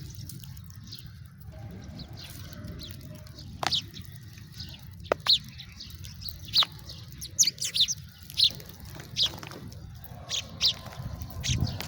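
House sparrows chirping: short, sharp chirps in irregular bunches, starting a few seconds in, over a low steady rumble.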